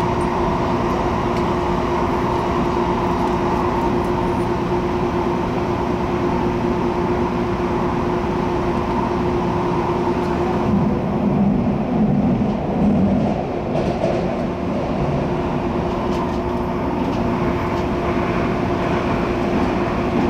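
Cabin noise of an MTR Airport Express CAF train running: a steady rumble with a constant hum, the low rumble swelling briefly a little past halfway.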